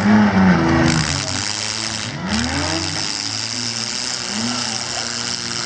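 Several demolition derby car engines revving up and down over one another, loudest in the first second, with a steady hiss beneath.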